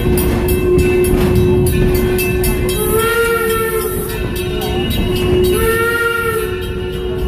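Steam locomotive whistle sounding two blasts of about a second each, a chord of several tones, over the steady running noise and clatter of the train's wheels on the rails.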